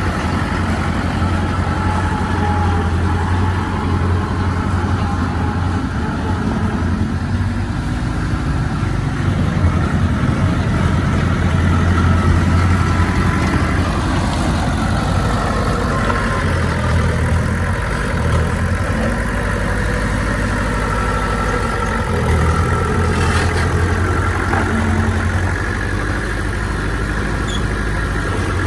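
Diesel engine of heavy earthmoving equipment running steadily under varying load, with a deep, low hum and a slight swell partway through.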